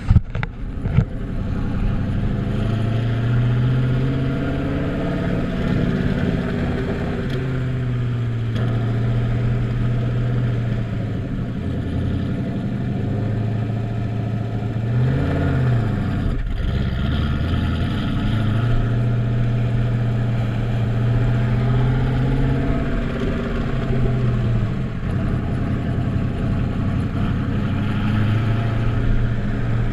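Exhaust of a turbocharged 2001 Chevrolet Camaro, exiting through the side of the rear bumper, in normal driving. The engine note rises and falls several times with acceleration and easing off, with a quick rev up and back down about halfway through.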